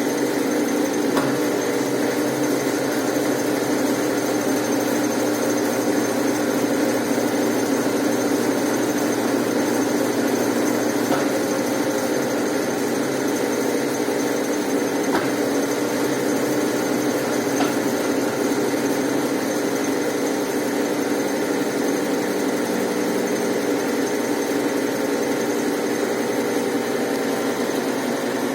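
Brastemp Ative 11 kg top-loading washing machine running steadily, its motor giving an even hum with a faint high whine.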